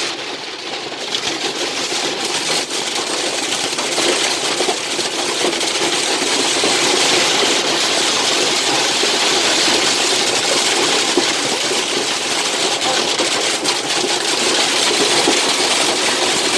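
Hailstones pelting down hard in a dense, steady rattle of countless small impacts, building over the first few seconds and then holding.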